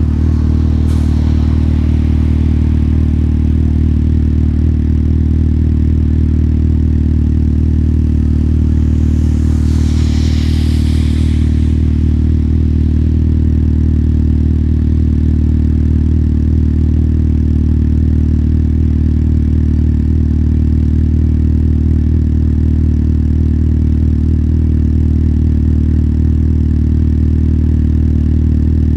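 Motorcycle engine running at a steady, unchanging pitch. A brief hiss swells and fades about ten seconds in.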